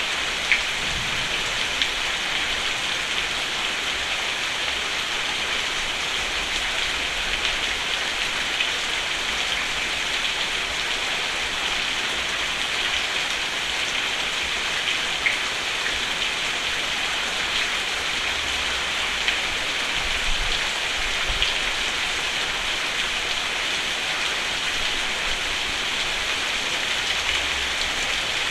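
Steady rain on a roof, with a dense even patter and now and then a single louder drop.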